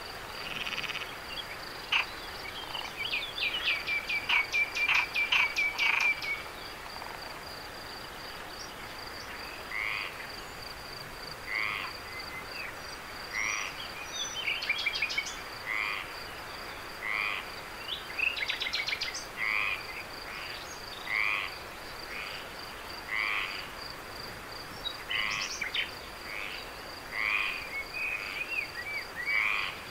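Night-time animal chorus: a steady high trill runs throughout. Over it comes a quick rattling run of calls a few seconds in, then short calls repeating about every two seconds.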